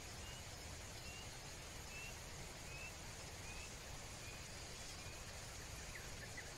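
A bird repeating a short, slightly rising whistled note about once every 0.8 seconds, with a few different short calls near the end, over a faint steady hiss.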